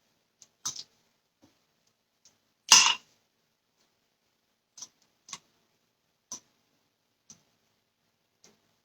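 Chicken strips being dredged in a dry seasoned batter mix: scattered light clicks and taps, with one louder scraping knock about three seconds in.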